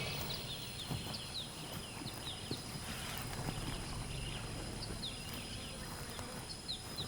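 Tropical forest ambience: a steady high insect hum with many short, high chirps scattered through it.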